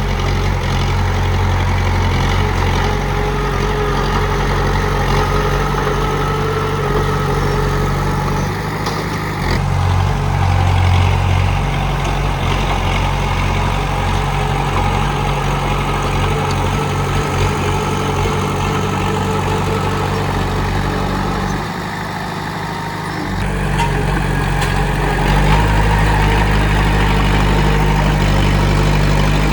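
Komatsu D31P bulldozer's diesel engine running steadily, its note shifting abruptly a few times and easing briefly about three-quarters of the way through.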